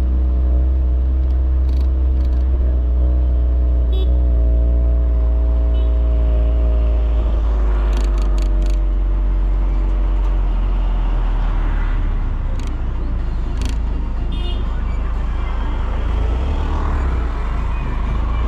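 Volkswagen Polo GTI's 1.8 TSI turbocharged four-cylinder engine and exhaust droning at a steady cruise with a deep rumble, the engine note dropping about seven seconds in as the car comes off the throttle, leaving mostly a rumbling road noise with a few short clicks.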